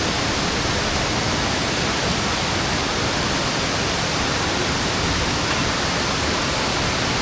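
Waterfall cascading close by: a steady, even rush of falling water.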